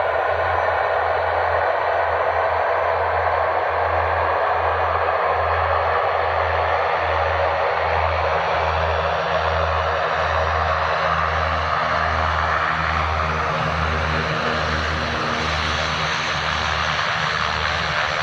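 Military turboprop aircraft running its engines and propellers, a loud steady sound with a low throb that pulses about once a second.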